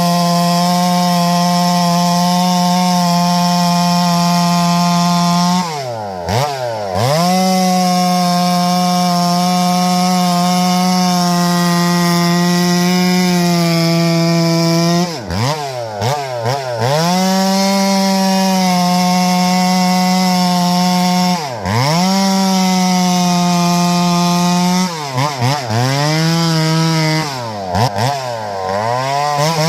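Two-stroke chainsaw running at full throttle, cutting Douglas fir, at a steady high pitch. Several times the throttle is let off and the pitch dips sharply before climbing straight back up.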